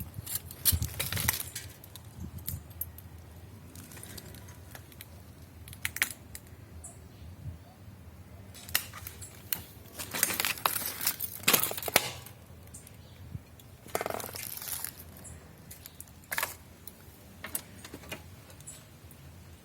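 Scattered light metallic clinks and rattles of small metal objects being handled. The clinks are densest about ten to twelve seconds in, with single sharper strikes before and after.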